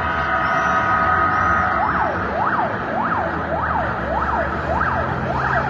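Siren yelping, its pitch rising and falling about twice a second, starting about two seconds in after a stretch of steady tones, over a steady low rumble.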